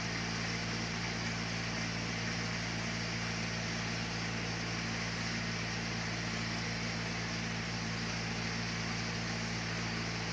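Sawmill machinery running steadily: a constant low drone with an even hiss over it, unchanging throughout.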